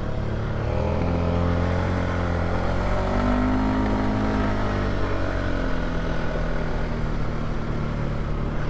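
Polaris ATV engine running steadily while riding, its pitch rising a little a few seconds in and easing back.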